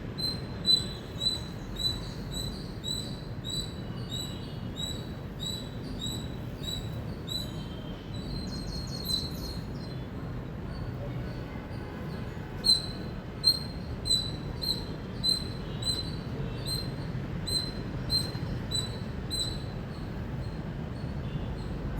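Indian palm squirrel giving its repeated high-pitched chirping call, a short sharp chip about every half second. It stops for a few seconds in the middle, then takes up the same steady rhythm again.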